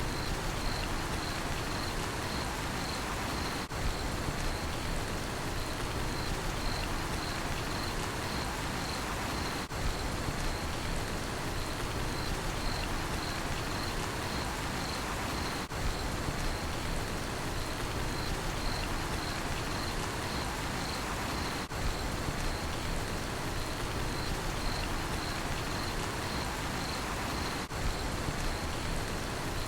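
Steady rain falling, with a cricket chirping in an even high-pitched pulse, about two chirps a second. The sound dips briefly about every six seconds.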